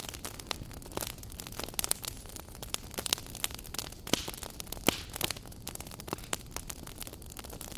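Wood fire burning in a fireplace: a steady low rush of flames with irregular crackles and sharp pops, a few louder pops partway through.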